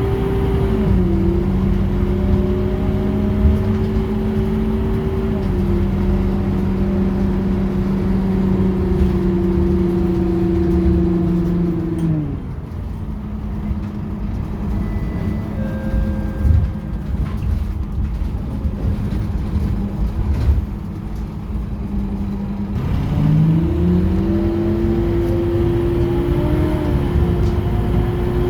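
Scania K230UB bus's nine-litre five-cylinder diesel engine and driveline running at steady revs, with small drops in pitch about one and five seconds in. The revs fall away about twelve seconds in and the engine idles low, then rise in a smooth climb about twenty-three seconds in as the bus pulls away again.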